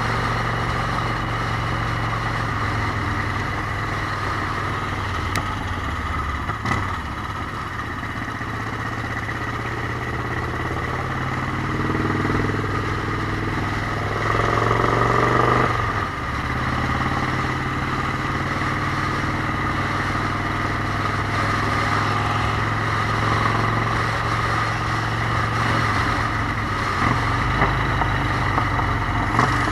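Motorcycle engine running at riding speed with steady wind and road noise. About halfway through, the engine pitch climbs for a few seconds, then drops off suddenly.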